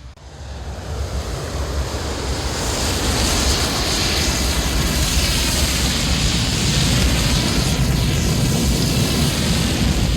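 Wind rushing over the camera microphone on a Harley-Davidson Sportster ridden at speed, mixed with the motorcycle's engine and road noise. It swells over the first two to three seconds as the bike gathers speed, then holds at a steady roar.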